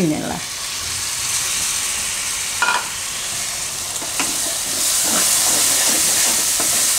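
Grated tomatoes sizzling in hot oil and fried onion masala in a kadai as a spatula scrapes and stirs them in. The sizzle jumps up at once and grows louder about two-thirds of the way through as the mixture is worked around the pan.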